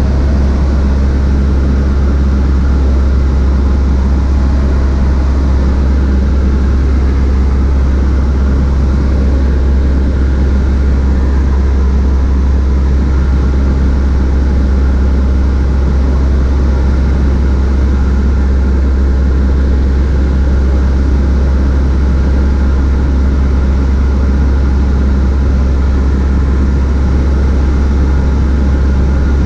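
Cessna 152's four-cylinder Lycoming engine and propeller running in a steady, loud drone, without change in pitch or level.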